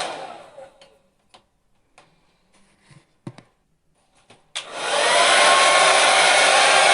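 Hair dryer switched off, its motor winding down over about a second. It stays off for a few seconds with only faint clicks and a soft thump, then is switched back on, spinning up with a rising whine to its steady blowing rush.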